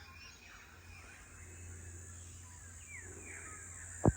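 Faint, distant bird calls: a scattered series of short, downward-gliding notes, over a low steady background hum. A sharp click sounds near the end.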